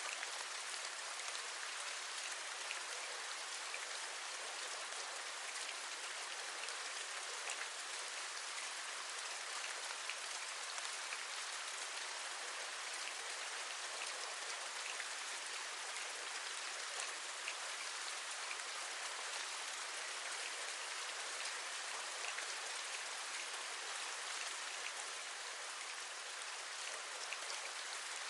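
Steady rain: an even hiss with scattered taps of individual drops.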